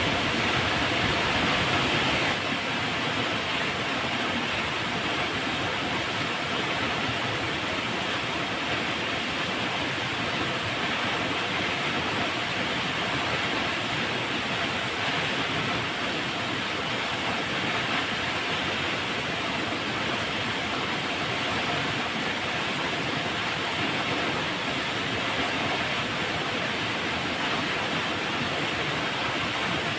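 Flowing river water rushing steadily as a dense, even hiss, dropping slightly in level about two seconds in.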